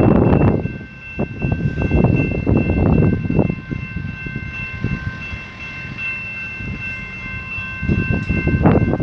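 Commuter train at the station: a low rumble with a steady high-pitched whine of several tones held throughout, and gusts of wind buffeting the microphone at the start and near the end.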